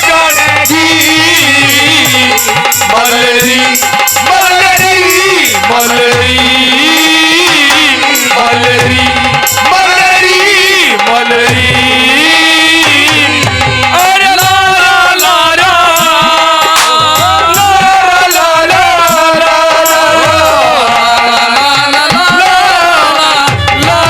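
Haryanvi ragni music without words: a wavering melody instrument playing over steady hand-drum rhythm and rattling percussion.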